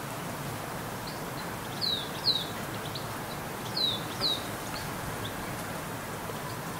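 A small bird calling: two pairs of short, high notes, each note sliding downward, the second pair about two seconds after the first, with a few fainter chirps, over a steady background hiss.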